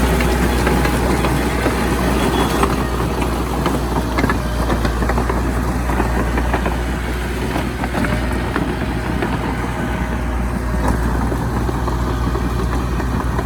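Heavy diesel engine running steadily, a deep low drone.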